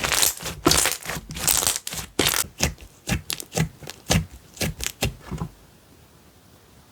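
Slime being squeezed and worked by hand, making a quick run of crackling, popping sounds that stops about five and a half seconds in.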